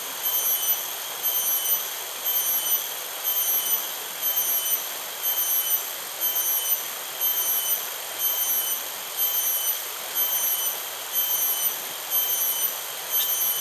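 Insect chorus: high, steady buzzing on several pitches at once, pulsing about twice a second.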